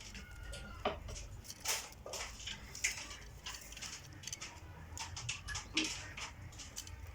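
Pigeons shifting about in their nest: irregular scratching and rustling, with a brief thin squeak right at the start.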